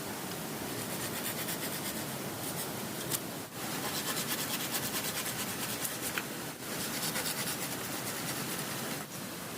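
A hand tool rasping against wood in quick, even strokes, in three spells broken by brief pauses, over a steady rushing of river water.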